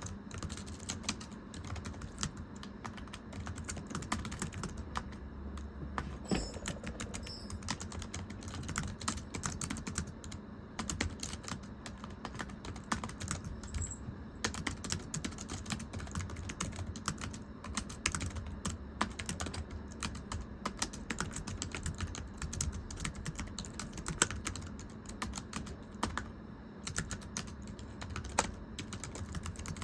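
Continuous typing on a thin, low-profile computer keyboard: rapid, irregular light taps with a few brief pauses.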